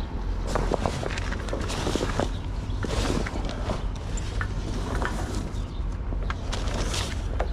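Flatbed tarp being folded and rolled by hand: irregular rustling and scraping of the heavy tarp material, over a low steady rumble.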